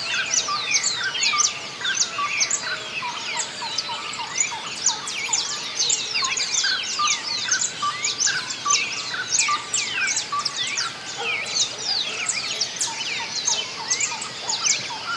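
Dawn chorus of many small birds singing at once: a dense, continuous mix of quick chirps and sweeping whistles, no single call standing out.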